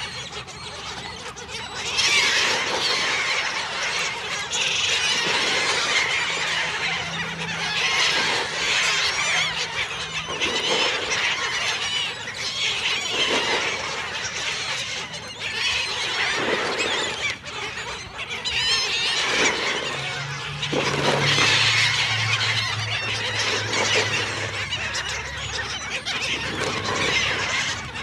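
A flock of seagulls calling over one another, many overlapping high calls without a pause.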